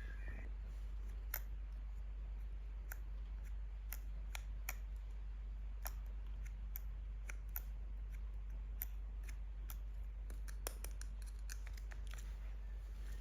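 Scissors snipping, a sharp irregular click every second or so, as when cutting open toy packaging, over a faint steady low hum.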